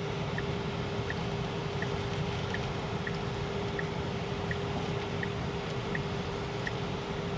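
Road and tyre noise inside a Tesla's cabin, with a steady hum and the turn signal ticking evenly, a little under once a second, for a right turn.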